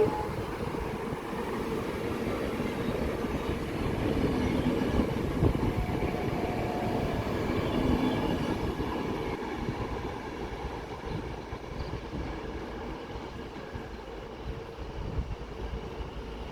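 A train running through a station: a steady rumble with a faint hum, growing gradually quieter over the second half.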